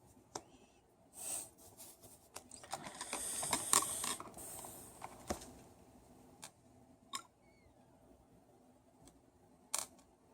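Handling noise: scattered sharp clicks and taps, with a spell of rustling and clattering about three to five seconds in.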